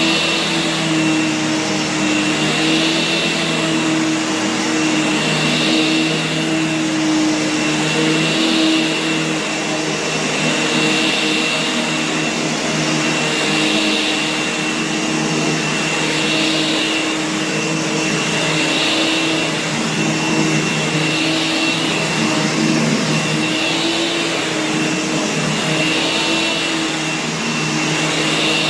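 Kenmore Whispertone upright vacuum cleaner, a Panasonic-built two-motor model, running steadily with a high whine and a low hum. A hiss swells and fades about every two and a half seconds.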